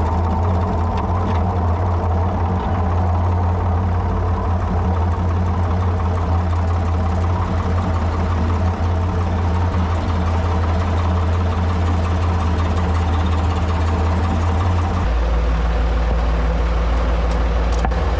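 Ford 3000 tractor's three-cylinder engine running steadily, then dropping to a lower, deeper note about fifteen seconds in.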